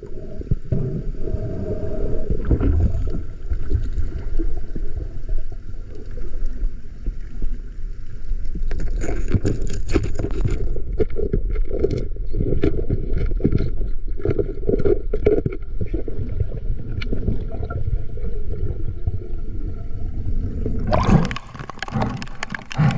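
Sea waves sloshing and gurgling with a low rumble, with scattered knocks and rustles in the middle stretch.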